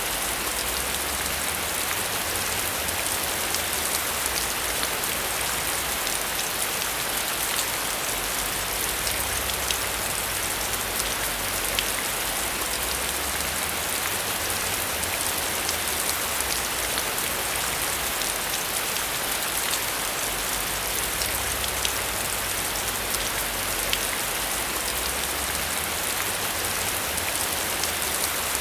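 Heavy rain falling steadily on a metal roof: a dense, even hiss with many sharp individual drop ticks.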